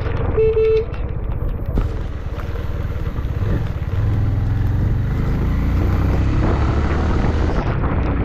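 Motorcycle riding in windy rain: engine and road rumble with wind noise. A vehicle horn gives a short beep about half a second in.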